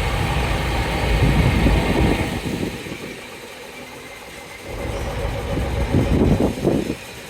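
Engine of a Dennis fire engine running as it drives past at parade pace; the low engine rumble drops away about three seconds in and builds again from about five seconds.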